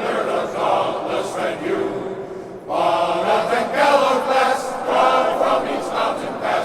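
Men's glee club singing together in chorus. The voices fall away briefly about two and a half seconds in, then come back in together, louder.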